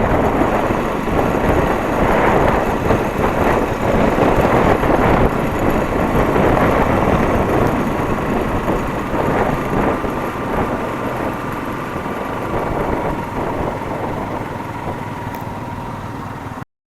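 Motorcycle running on the move, engine and road noise together, slowly getting quieter and then cutting off suddenly near the end.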